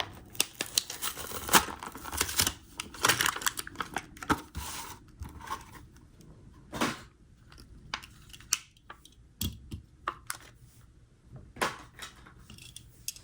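Diecast toy car packaging being opened by hand: crinkling and tearing of the packaging for about the first five seconds, then scattered clicks and taps as the model is handled.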